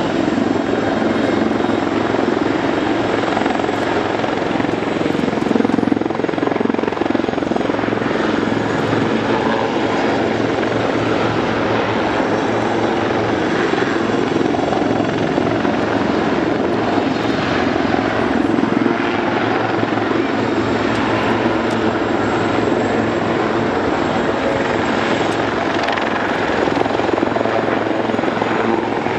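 Westland Lynx display helicopters flying overhead: a steady, loud run of rotor and turbine noise.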